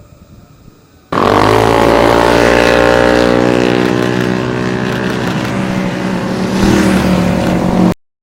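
Motorcycle engine running loud: it cuts in abruptly about a second in, its pitch dropping briefly and then holding steady, and stops sharply near the end.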